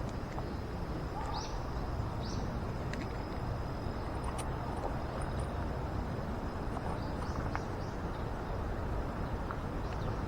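Outdoor ambience: a steady low rumble of background noise with a faint steady high whine, and a few short bird chirps, two near the start and a small cluster about seven seconds in.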